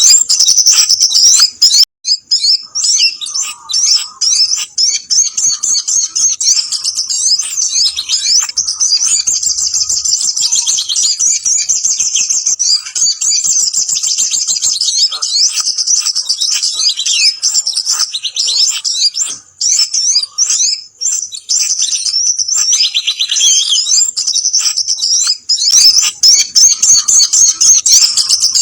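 Bird-lure recording of sogon (sogok ontong) and kemade calls: a busy, unbroken chatter of rapid high chirps and trills, used to draw wild small birds in.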